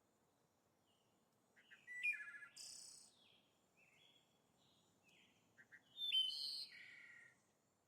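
Songbird chirps and short song phrases. After a quiet first second and a half, they come in separate short high calls, loudest about two seconds in and again around six seconds.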